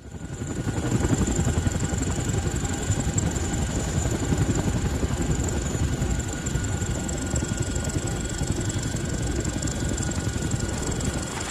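Army helicopters flying over: a dense, fluttering rotor noise under a steady high turbine whine.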